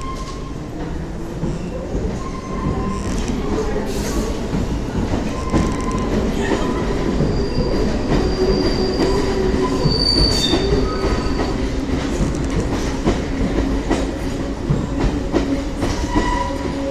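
London Underground C stock train running on the rails, its rumble building over the first few seconds, with clicks from the wheels and a high wheel squeal in the middle.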